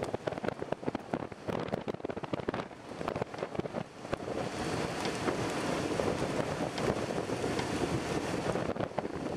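Strong thunderstorm wind gusting across the microphone, a rough rushing noise full of crackle that grows steadier and louder about four seconds in.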